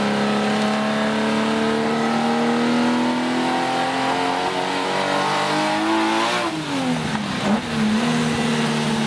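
Tuned Nissan Skyline KGC10's 3.1-litre L28-based straight-six, breathing through Weber carburettors and Watanabe headers, heard from inside the cabin. It pulls hard with the revs climbing steadily for about six seconds. The revs then fall sharply as it shifts up, and it runs on steadily at lower revs.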